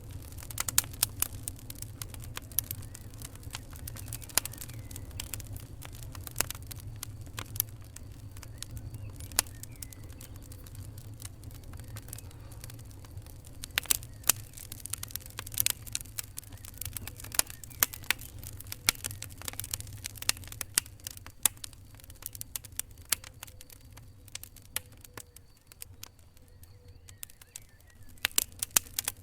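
Wood fire crackling: irregular sharp pops and snaps over a steady low rumble, with the pops sparser for a few seconds after the middle and coming thick again near the end.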